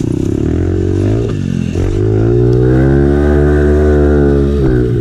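Small pit bike engine revving hard: it dips about a second in, climbs steadily in pitch to a held high rev, then drops off near the end, as when a bike is ridden up a steep hill in first gear.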